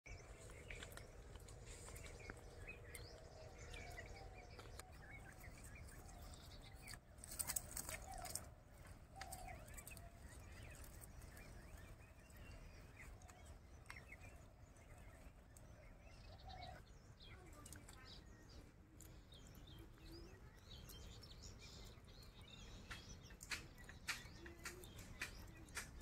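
Faint bird chirps and calls over quiet outdoor ambience, with a few sharp clicks about seven seconds in and again near the end.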